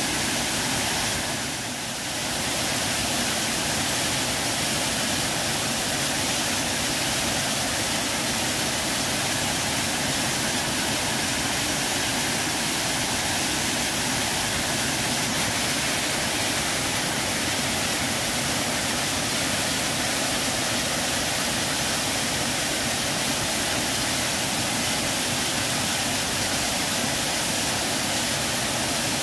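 Steady rush of water falling and cascading over a waterfall, with a brief dip in level about two seconds in.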